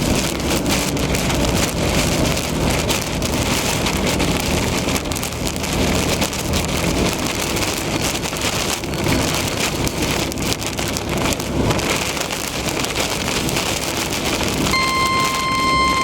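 Heavy rain pelting a moving car, a dense hiss full of drop hits. About a second before the end a steady beeping tone starts: the weather radio's alert tone that comes before a severe thunderstorm warning.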